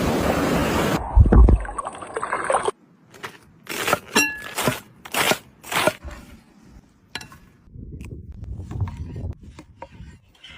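A knife or cleaver chopping fish on a wooden cutting board: about six sharp chops in three seconds, then softer scattered knocks and scraping. Before that, a steady rushing noise cuts off suddenly about a second in, and there is a heavy thump.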